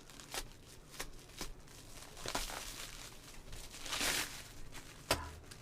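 Shipping package being cut and pulled open by hand: scattered sharp clicks and crinkling, with a longer rustling tear about four seconds in.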